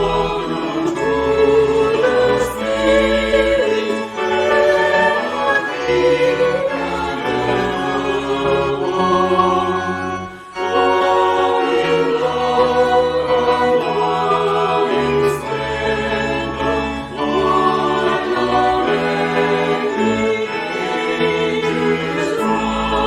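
Choir singing with organ accompaniment in held chords over a moving bass line, with a short break about ten seconds in.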